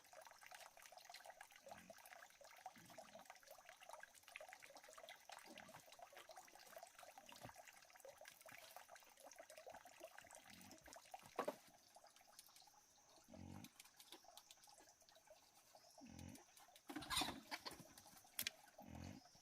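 Faint trickling water with a steady high insect drone and short, low frog-like croaks every second or two. There is a sharp knock about eleven seconds in and a louder rustling splash near the end.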